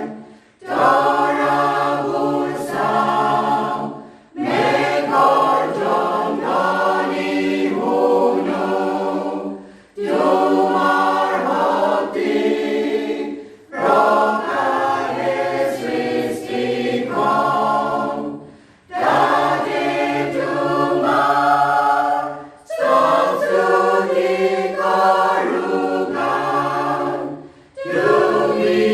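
A choir singing in phrases a few seconds long, separated by short pauses.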